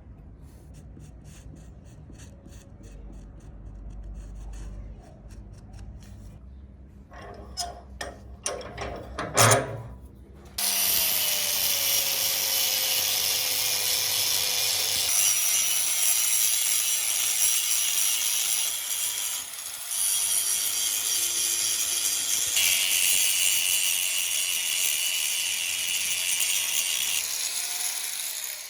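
An electric power tool abrading material: a loud, steady grinding noise starts suddenly after a few knocks and runs on, over a faint motor whine that drifts lower and then rises again, with a brief drop near the middle.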